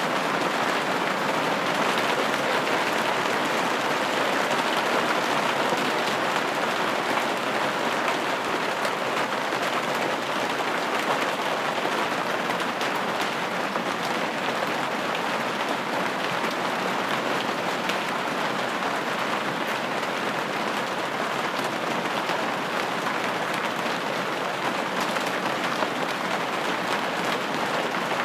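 Steady rain pattering on a window pane, an even wash of fine drop impacts that stays at one level throughout.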